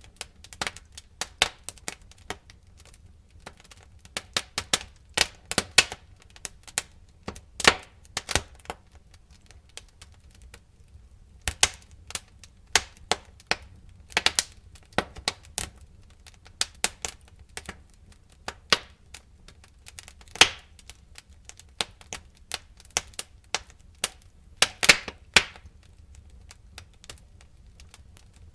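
Wood fire crackling: irregular sharp pops and snaps, a few louder ones, over a faint low rumble of the flames.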